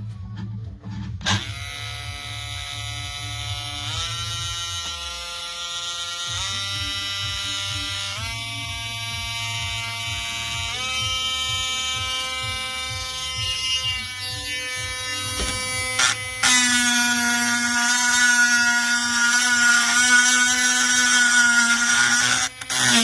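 Cordless rotary tool's small motor switched on, its whine stepping up in pitch through several speed settings. In the last quarter it runs louder, its pitch wavering and dipping.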